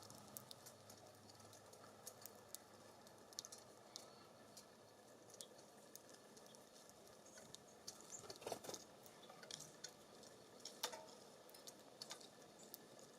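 Faint, scattered ticks and taps of small birds pecking seed and hopping on a wooden feeder, with a few louder clicks in the second half.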